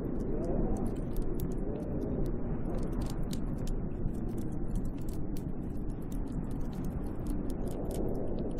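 Snowstorm wind blowing steadily, with a slowly wavering pitch, and scattered light ticks throughout.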